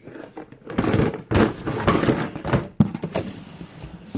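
Plastic fidget toys being rummaged and handled in a drawer: a run of clattering and rustling, then a sharp knock and softer clicks.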